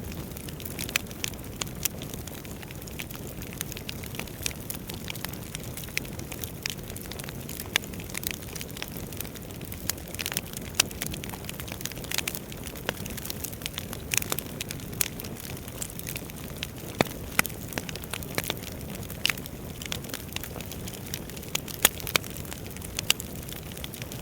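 Wood fire burning in a fireplace, with a steady low rumble of flames and frequent irregular crackles and sharp pops from the burning logs.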